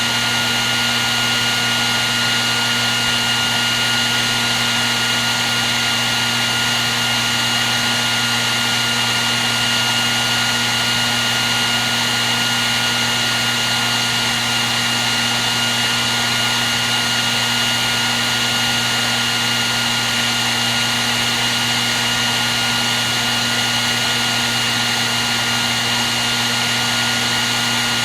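Electric hair dryer running continuously: a steady rush of blown air with a constant motor whine, no change in speed.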